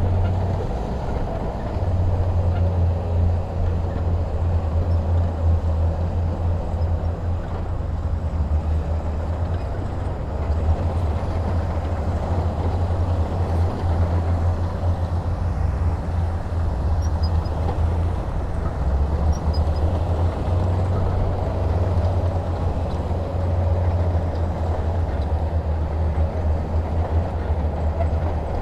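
Heavy diesel engine running steadily as a deep, continuous drone, slightly wavering in level.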